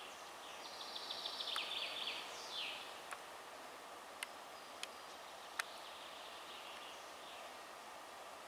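Songbirds singing short trilled phrases over a steady outdoor hiss; one phrase ends in a quick falling note. A few sharp clicks sound in between.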